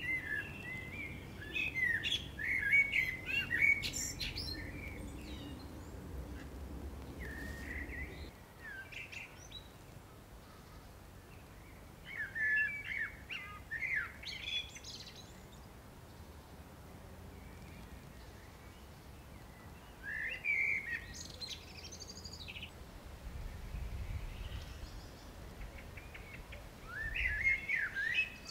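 Songbirds singing in short phrases of chirps and warbles every few seconds, over a low steady background rumble that fades out about eight seconds in and returns near the end.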